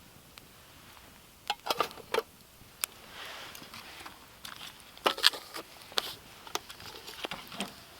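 Camp cookware and utensils being handled: a scattering of light knocks and clinks, clustered about a couple of seconds in and again around five seconds in.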